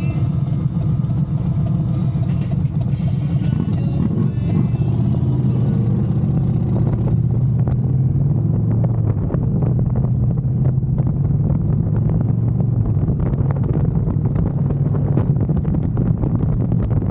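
Motorcycle engine running steadily while riding, a loud low drone; a high hiss drops away about halfway through.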